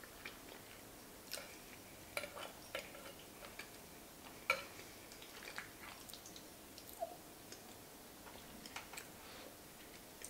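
Faint mukbang eating sounds: chewing a mouthful of baked mac and cheese with a crushed Ritz-cracker crust, heard as scattered short mouth clicks, and a metal spoon scraping and tapping the ceramic baking dish while scooping another bite.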